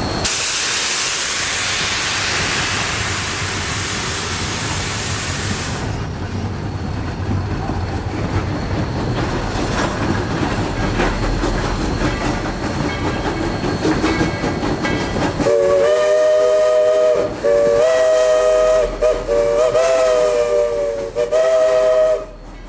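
Narrow-gauge steam locomotive on the move: a loud hiss of steam for the first several seconds, then the rumble and clicking of the running train. From about two-thirds of the way in, the steam whistle sounds several notes at once in a series of blasts, the longest about two seconds, and stops shortly before the end.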